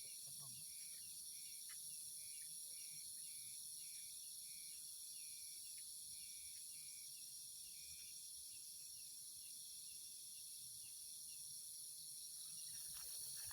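Insects, crickets and the like, in a steady high-pitched chorus, with a short chirp repeating about twice a second that stops about eight seconds in.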